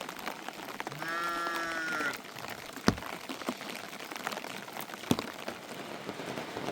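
A livestock animal bleats once, a call about a second long. Two sharp knocks follow a couple of seconds apart, over a steady hiss.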